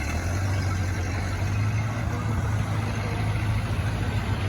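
1931 Ford Model A truck's four-cylinder flathead engine running steadily with a low, even hum.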